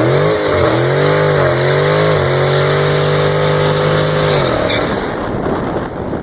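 Dodge Scat Pack's 392 HEMI V8 held at high revs during a burnout, its pitch wavering with small dips over the noise of the spinning rear tyres, then dropping away about five seconds in as the throttle comes off.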